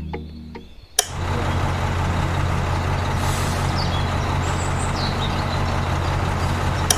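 A machine running steadily with a low hum under a wide hiss. It starts suddenly with a click about a second in and cuts off abruptly near the end.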